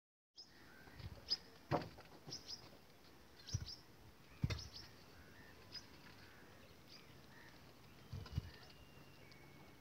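Faint outdoor ambience with small birds chirping now and then, short high chirps. A few soft knocks are mixed in.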